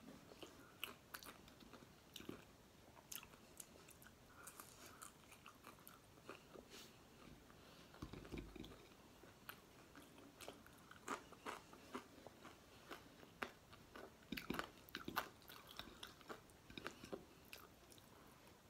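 Faint close-up sounds of someone chewing a mouthful of crisp-fried galunggong (round scad) and rice eaten by hand. Scattered small crunches and clicks come at an uneven pace, thickest in the second half, as the well-fried fish and its bones crunch between the teeth.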